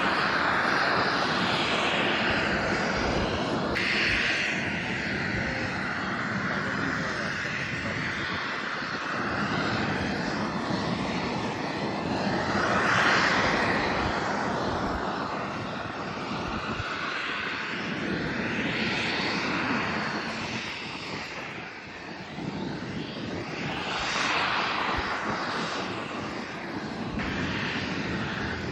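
Airliner's engines running loud and continuous: a rushing roar that swells and sweeps in pitch several times as the aircraft moves.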